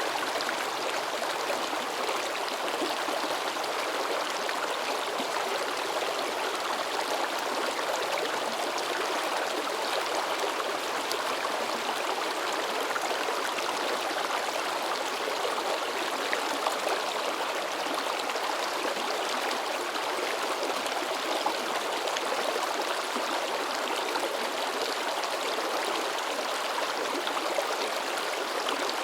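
River babbling over rocks: a steady, even rush of flowing water with small splashing flecks and no letup.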